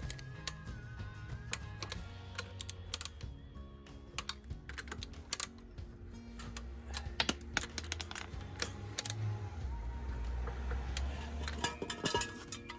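Hand ratchet wrench clicking in quick runs while wheel bolts are tightened, over background music.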